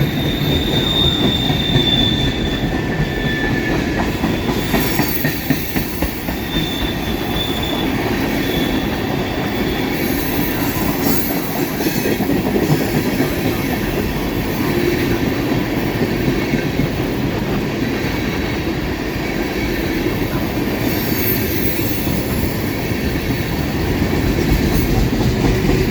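Freight cars of a long manifest train rolling past close by: a steady rumble and clatter of steel wheels on rail, with thin high wheel squeals near the start and again about six seconds in.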